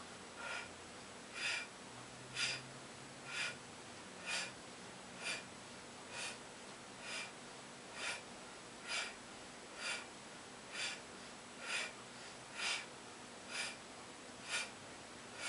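A man's sharp, forceful breaths, one short puff a little under once a second, kept in rhythm with each rep of a set of abdominal crunches.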